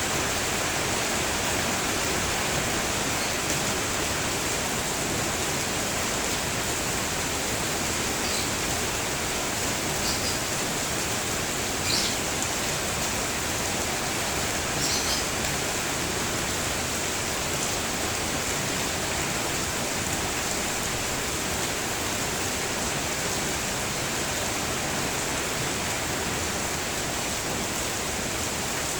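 Steady rain falling, an even hiss throughout, with a few brief bird chirps in the middle stretch.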